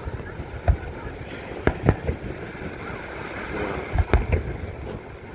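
Aerial fireworks shells bursting: a string of sharp bangs, a pair about two seconds in and a quick cluster around four seconds in, over a steady background rush.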